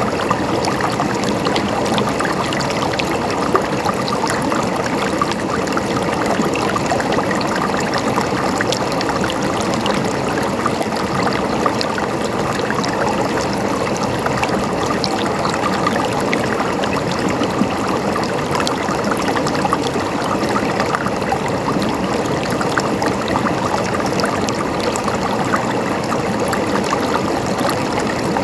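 Flowing water gurgling in a steady, unbroken rush, flecked with many small splashes.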